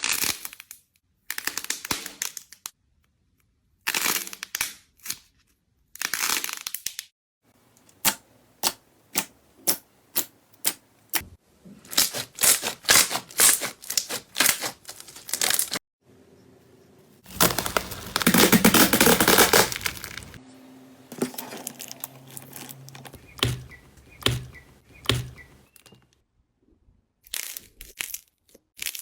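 Slime being squeezed, poked and pressed by hand, giving runs of sharp crackling and popping in short bursts, separated by brief silences. The longest and loudest run of crackling comes about two-thirds of the way through.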